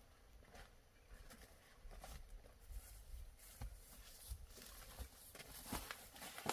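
Faint, scattered light taps and knocks, more frequent toward the end.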